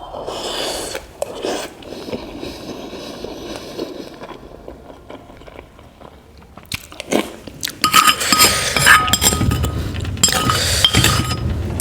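Close-up eating sounds: chewing with clinks of cutlery against the dish, sparse at first and becoming busier and louder in the second half.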